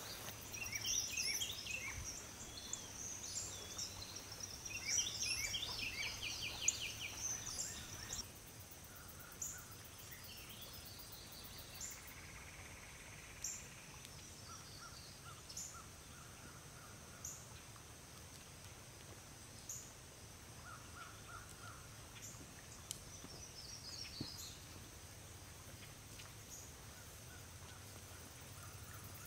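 Songbirds singing at dawn, with busy chirps and trills for the first several seconds, then only sparse short calls and an occasional trill.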